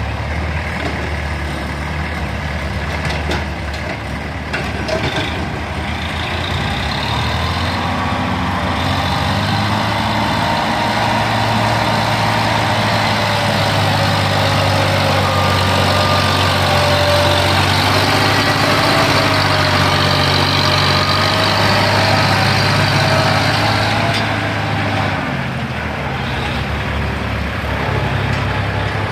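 Diesel tractor engine running. Its revs and loudness climb from about seven seconds in and hold high, as under load, then drop back about twenty-five seconds in.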